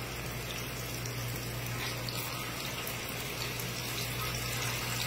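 Chapli kebabs and a seekh kebab shallow-frying in hot oil in a wok: a steady sizzle of bubbling oil, with a steady low hum underneath.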